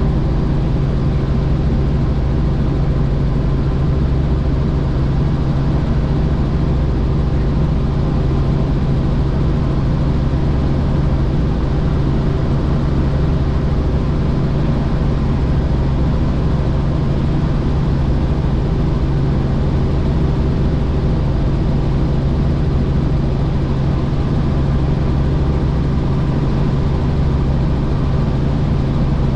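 Helicopter in flight, its rotor and engine making a loud, steady drone with a deep hum that does not change.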